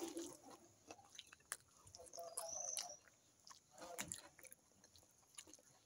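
Faint chewing of a mouthful of fish stew, rice and vegetables, with soft mouth clicks scattered throughout.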